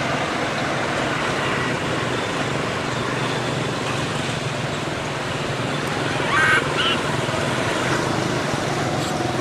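Steady outdoor background noise like distant traffic, with a short high-pitched animal call about six seconds in.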